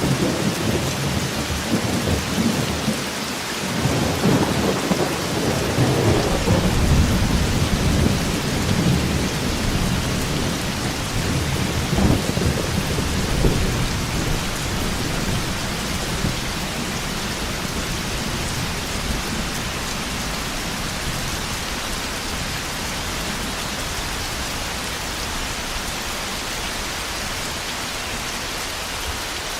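Heavy rain falling steadily, with thunder rumbling through the first half and dying away about halfway through, leaving only the rain.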